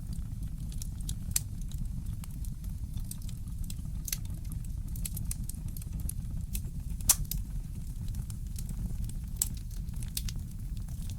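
Wood fire in a fireplace crackling, with scattered sharp pops, the loudest about seven seconds in, over a steady low rumble.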